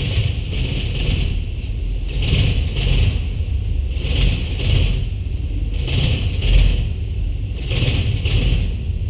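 Freight train of autorack cars rolling past at speed: a steady low rumble, with the steel wheels clattering in pairs, two clacks about half a second apart, repeating roughly every two seconds as each car goes by.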